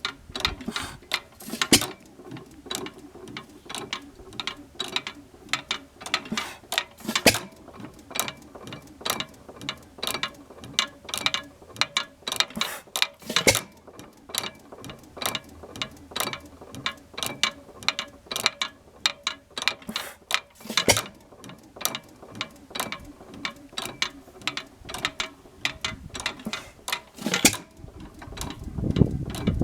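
1918 5 hp Monitor hit-and-miss engine running, its valve gear clicking and clattering several times a second, with a louder knock about every six or seven seconds.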